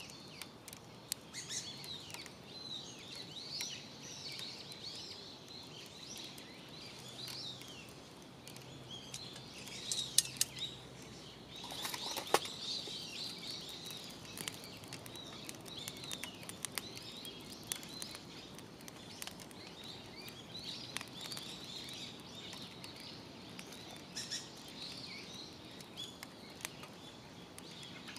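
Wild birds chirping and calling throughout, with scattered sharp clicks; the loudest clicks come about ten and twelve seconds in.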